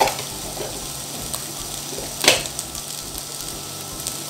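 Shredded cabbage and egg sizzling in a hot nonstick wok, a steady hiss, with one sharp tap of the spatula about two seconds in.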